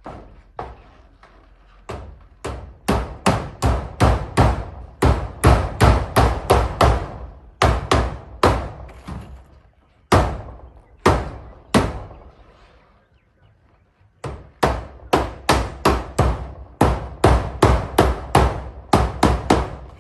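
Hammer blows driving nails in quick runs of about three to four strikes a second, with a few single blows and a short pause before a second run.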